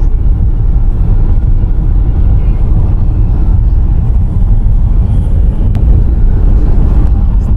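Steady low rumble of a car in motion, with a single faint click about six seconds in.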